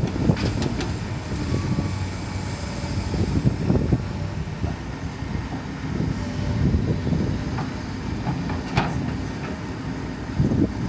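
Excavator's diesel engine running steadily under load, with a faint whine and a few sharp metallic clanks: a couple within the first second and a sharper one near the end.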